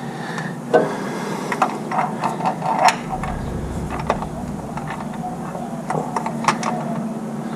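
Irregular metallic clicks and clanks as a part is pushed and worked against the front of a Ford 302 V8 engine, over a steady low hum. The part will not seat.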